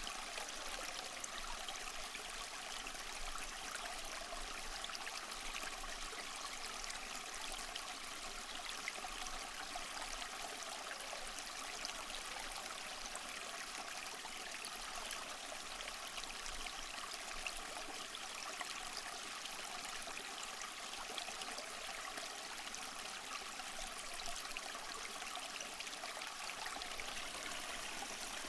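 Small waterfall splashing and trickling over mossy rocks, a steady hiss of falling water with no change.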